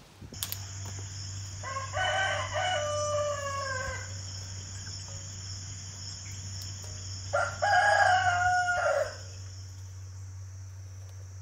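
A rooster crowing twice, each crow about two seconds long and dropping in pitch at its end. Behind it run a steady high-pitched insect drone and a low steady hum.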